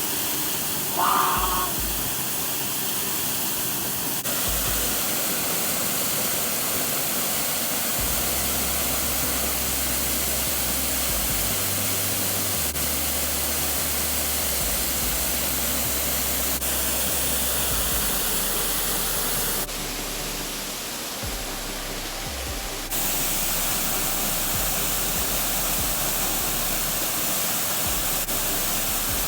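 Waterfall rushing, a loud steady roar of falling water, under background music with low sustained notes that change every few seconds.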